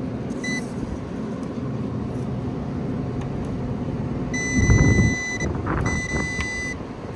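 Multimeter continuity beeper testing fuses: a short beep, then a beep of about a second, then one a little shorter; the beep means the fuse conducts. A steady low hum runs underneath, with a dull low thump in the middle.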